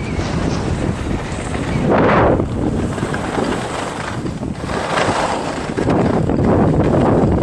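Wind rushing over the microphone of a camera moving fast down a ski slope, swelling and easing in waves about every three seconds.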